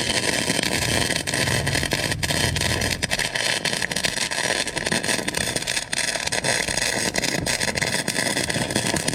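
Harbor Freight wire-feed welder's arc crackling and sizzling steadily as a bead is run to weld an eye screw shut. It stops abruptly just after the end.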